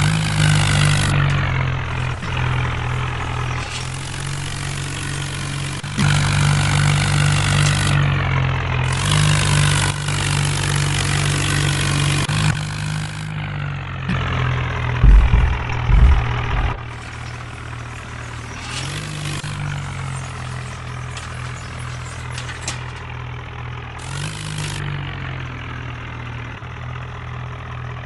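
Tractor engine running. Its pitch steps up and down several times as the revs or load change, with bursts of hiss coming and going. A few heavy low thumps come about fifteen seconds in.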